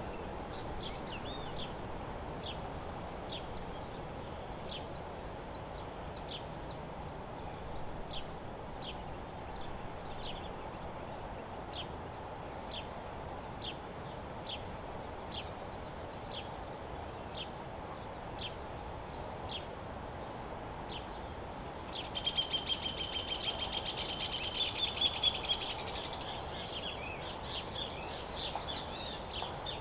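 Birds calling over steady outdoor background noise: one bird repeats a short, high, falling chirp about once a second. About two-thirds of the way through, a louder, rapid string of high calls joins for a few seconds.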